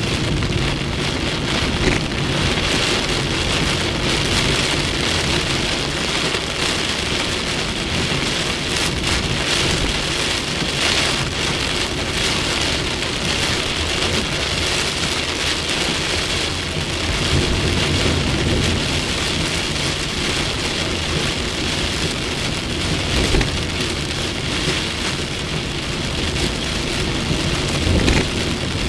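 Heavy storm rain pouring down steadily and drumming on surfaces, with a steady low hum underneath.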